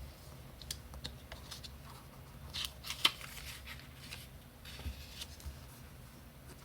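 Scissors cutting construction paper: a string of irregular snips and paper rustles, the sharpest snip about three seconds in.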